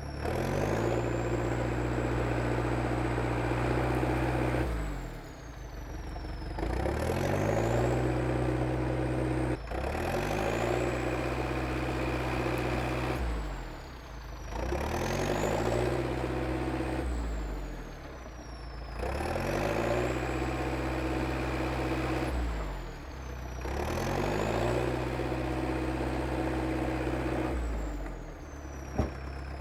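International Harvester TD8E crawler bulldozer's diesel engine running while clearing a trail. Its speed and loudness sag and pick back up about every four to five seconds as the machine works. A sharp click sounds about ten seconds in, and a louder one near the end.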